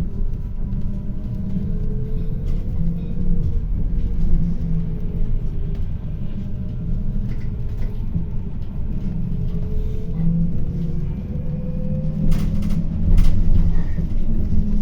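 City bus in motion, heard from inside: a steady low drivetrain and road rumble with a faint whine that rises and falls as the bus speeds up and slows. A few sharp rattles or knocks come near the end.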